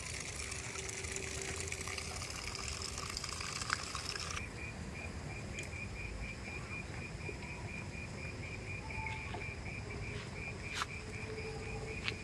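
Outdoor ambience with a steady low rumble. About a third of the way in, a high hiss drops away and a rapid high-pitched chirping starts, about five pulses a second, and carries on. A couple of sharp clicks come near the end.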